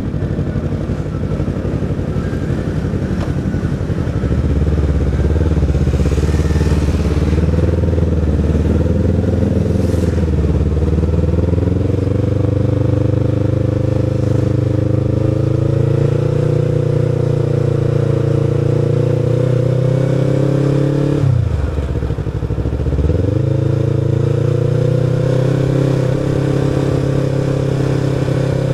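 Sport motorcycle's engine running while riding in traffic, at low revs for the first few seconds, then pulling steadily with its pitch slowly climbing. Just after the twenty-second mark the revs drop sharply and come straight back up.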